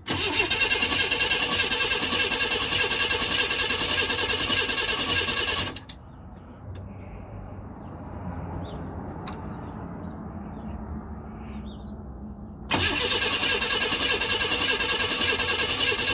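Starter cranking a 1992 Chevy Camaro RS V6 engine that turns over strongly but never fires (crank-no-start). There are two cranking attempts: one of about six seconds that stops, then a pause of about seven seconds, then cranking again about 13 seconds in.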